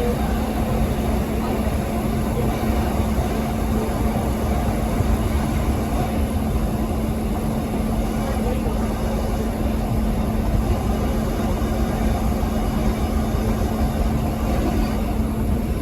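Steady running noise of a vehicle: a constant low rumble with an unchanging hum over it.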